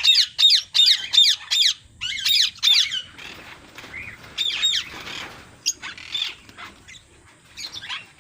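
Pet birds squawking: a quick run of about five sharp, loud calls, another cluster a couple of seconds in, then scattered calls.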